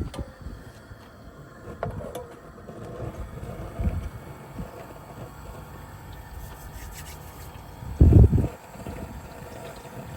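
Wind buffeting the microphone in uneven gusts, one strong low gust about eight seconds in, over the steady hiss of a camp stove burner turned up high.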